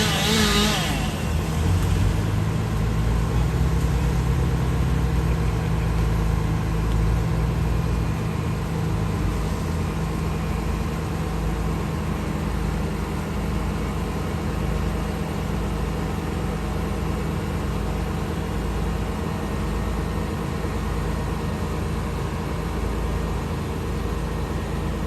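A chainsaw cutting stops in the first second. After that a large engine runs steadily at a low, even drone.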